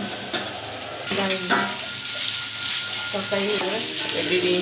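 Sliced onions sizzling in hot oil in a frying pan, stirred with a spatula. The sizzle gets louder about a second in.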